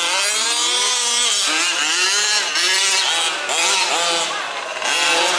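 Several 1/5-scale two-stroke petrol RC truck engines racing together, revving up and down with overlapping, constantly rising and falling pitches.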